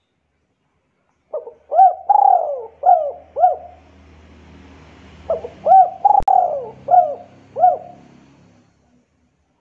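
A bird calling two phrases of about five short notes each, every note rising and falling in pitch, the second phrase starting about four seconds after the first.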